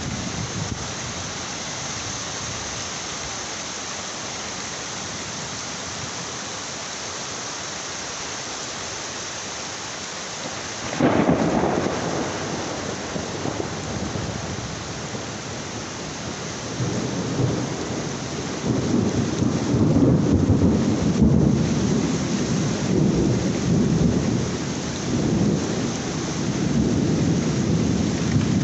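Heavy rain falling steadily. About eleven seconds in, a sudden crack of thunder breaks out, and a few seconds later a long, rolling rumble of thunder swells and fades repeatedly through to the end.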